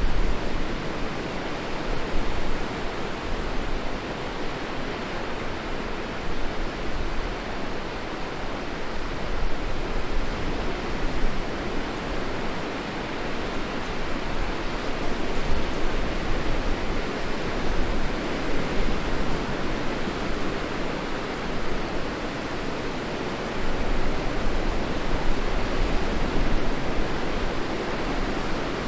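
Steady rushing outdoor noise with a low rumble that swells and eases, with no distinct events.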